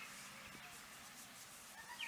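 Near silence: faint outdoor background, with the tail of a short chirping call right at the start.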